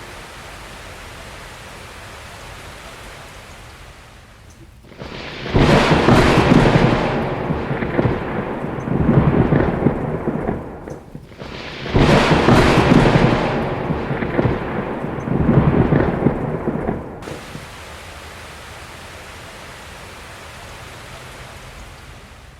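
Steady rain hiss with two long, loud rolls of thunder through the middle, the second ending abruptly, after which only the rain remains.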